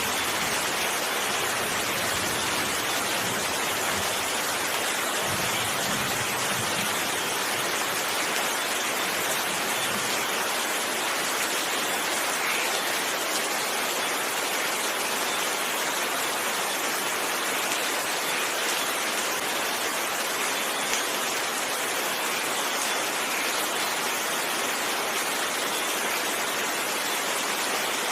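Steady, even rainfall, a continuous dense hiss of rain. A low rumble sits under it through the first ten seconds or so, then eases off.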